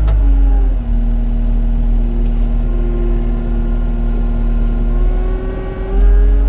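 Heavy equipment's diesel engine running under hydraulic load while digging, its pitch dropping in the first second, holding steady, then rising again about six seconds in.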